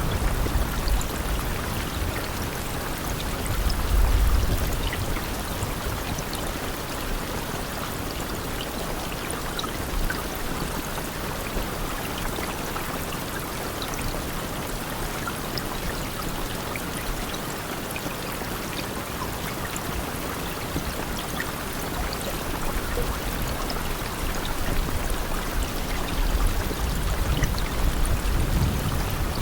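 Steady rain falling, an even hiss with scattered sharp drop ticks. A low rumble swells briefly about four seconds in and again near the end.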